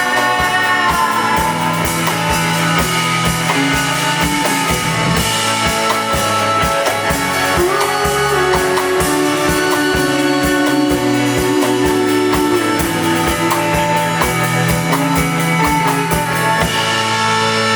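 Live rock band playing, with a steady drum beat under held guitar and other sustained tones.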